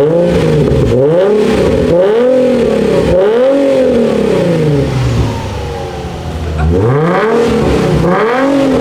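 Nissan 350Z's 3.5-litre V6 being revved through a custom dual-valved X-pipe exhaust: repeated quick blips of the throttle, each rising and falling. It settles back near idle for a moment about two-thirds of the way through, then revs twice more.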